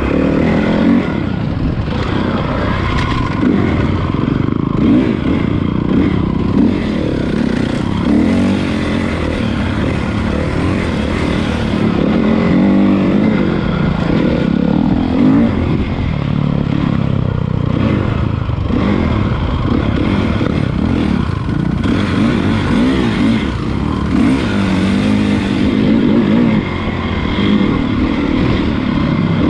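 Honda CRF450 motocross bike's four-stroke single-cylinder engine being ridden, revving up and easing off again and again as the throttle is worked.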